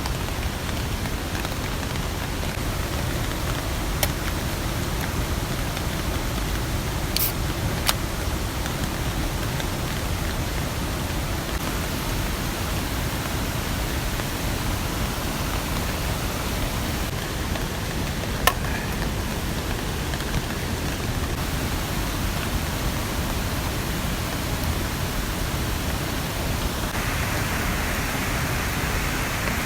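Steady rain hissing in a mountain forest, with a few sharp ticks like drops hitting the tarp. A few seconds before the end the hiss turns brighter.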